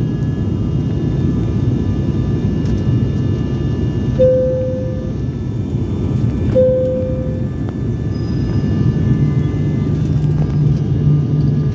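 Steady drone of a turboprop airliner's engines and propellers heard inside the passenger cabin, a loud even noise with a low hum and steady tones running through it. Two short tones sound about two and a half seconds apart, around four and six and a half seconds in.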